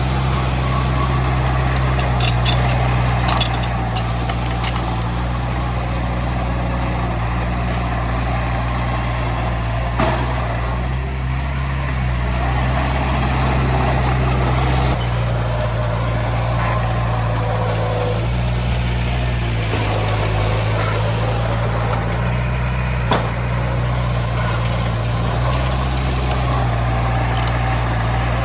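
Heavy diesel engine of earth-moving machinery running steadily, its pitch shifting a couple of times as it works under load. There are a few sharp metallic knocks, one about ten seconds in and one near the end.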